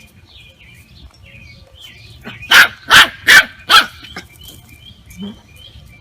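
A dog barks four times in quick succession about halfway through, over faint, repeated chirping of small birds.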